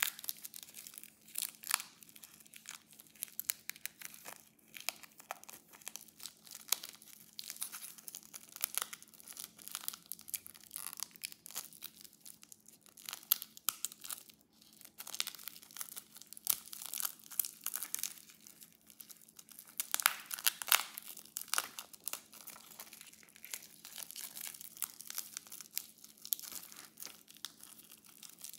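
Packaging being crinkled and torn open by hand: a dense, uneven run of sharp crackles, louder around twenty seconds in, over a faint steady hum.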